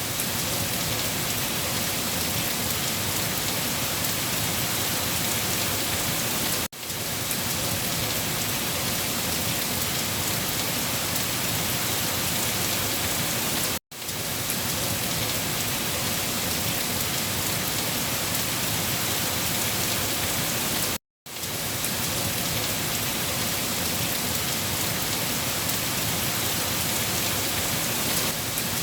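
Steady rain falling, an even hiss of drops. The sound cuts out briefly three times, about every seven seconds, then comes straight back.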